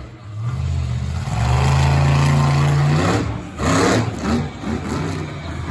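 Monster truck engine revving hard: held at high revs for a couple of seconds, then revving up and down, with a short rush of noise about three seconds in.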